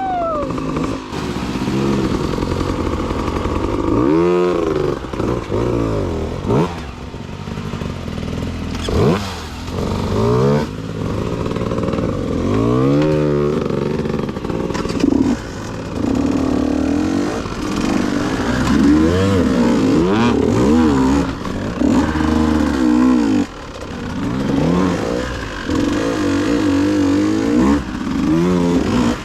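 KTM 150 two-stroke dirt bike engine revving up and down repeatedly while riding, with scattered knocks and clatter from the bike over rough ground.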